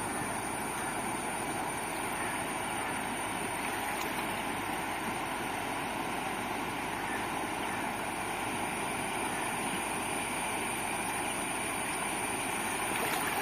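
Steady rushing of river water, even in level throughout, with a faint constant high-pitched hiss above it.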